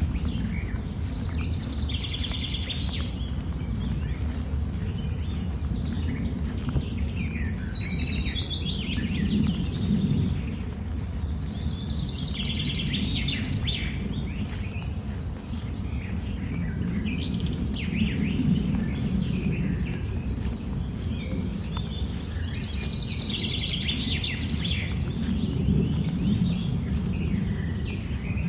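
Birds singing and calling in several separate bouts of chirps and quick gliding notes, over a steady low rumble.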